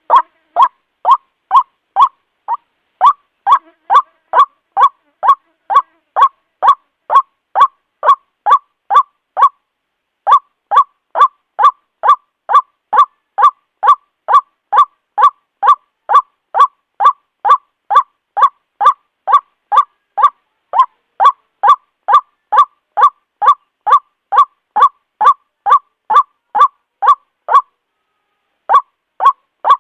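White-breasted waterhen calling its repeated 'ruak-ruak' note in a loud, even series of short calls, about two to three a second. The series pauses briefly three times. It is the bird's territorial and breeding call, used to lure waterhens.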